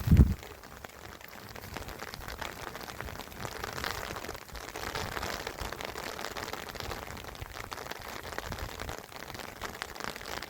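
A short, low thump at the very start, then the steady hiss of running water.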